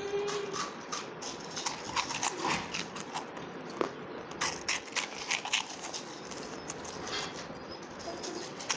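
Two people chewing crunchy tube-shaped puffed corn snacks: many short, sharp crunches at an irregular pace.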